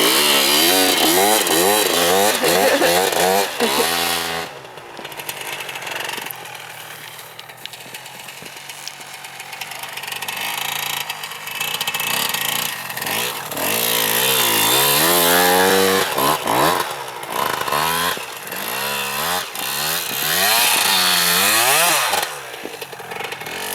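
Motocross bike engine revving up and down again and again as it is ridden, the pitch climbing and dropping with the throttle; it drops back and quietens for several seconds about a third of the way in, then revs hard again.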